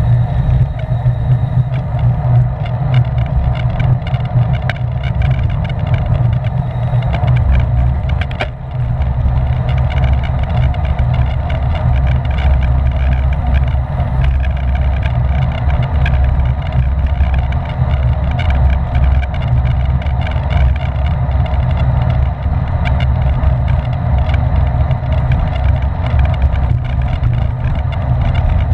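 Steady low rumble of wind buffeting the microphone of a camera carried on a bicycle racing at speed.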